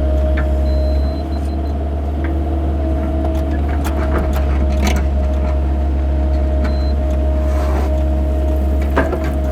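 Excavator's diesel engine running steadily under load, with a steady hydraulic whine and a few sharp knocks, the clearest about halfway through and near the end, as the machine digs.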